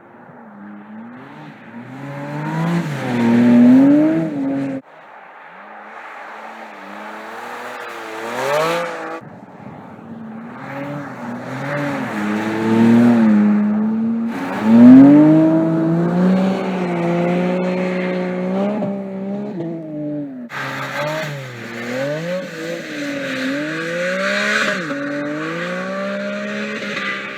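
Porsche 718 Cayman GT4 RS's naturally aspirated 4.0-litre flat-six revving and accelerating in a series of passes, its pitch climbing and falling, loudest about 4 s and 15 s in. The sound cuts off abruptly about 5 s in and changes sharply about 20 s in.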